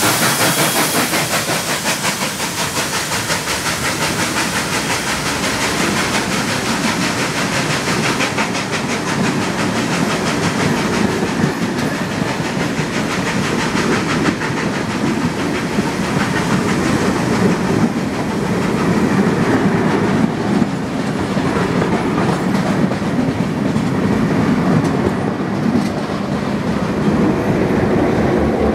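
Steam-hauled vintage passenger carriages rolling close past at speed, their wheels clicking in a steady rhythm over the rail joints. Steam hiss from the just-passed steam locomotive fades over the first few seconds.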